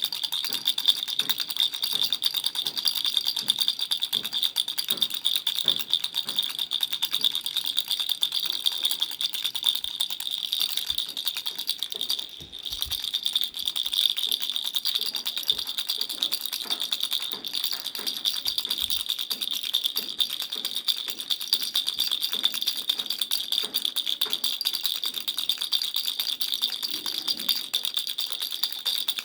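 Baby rattle shaken continuously, a dense fast rattle with a short break about twelve seconds in.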